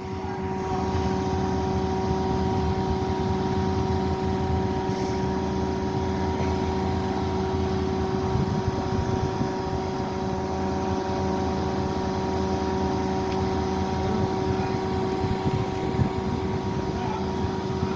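Engine running steadily: a constant droning hum with several unchanging tones and no rise or fall in speed.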